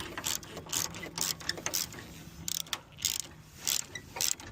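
Hand ratchet wrench clicking in short, irregular strokes, several a second, as a fastener is worked.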